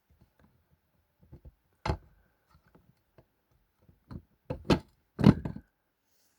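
Crunching of something crisp: a few sharp, irregular crunches, with the loudest group near the end.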